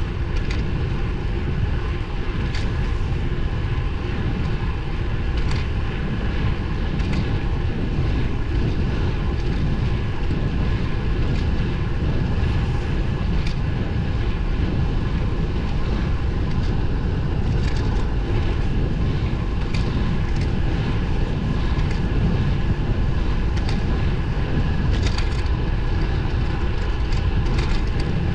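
Wind rushing over the microphone and tyre noise from a road bike being ridden, with a faint steady whine and occasional small clicks and rattles from the bike over bumps.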